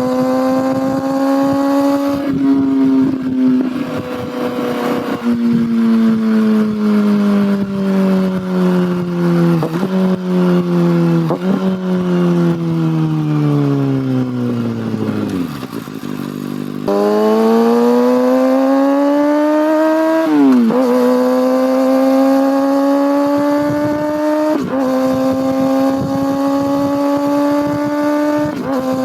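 Kawasaki ZX-6R inline-four engine and exhaust while riding. It pulls up through the gears, its pitch rising and then dropping at each upshift, before slowing in a long falling note with short rev blips on the downshifts. Near the middle the sound jumps abruptly, and the engine then accelerates again through several upshifts.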